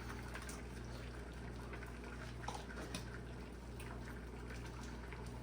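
Faint, steady sizzle of French toast frying in a pan, with a few light clicks.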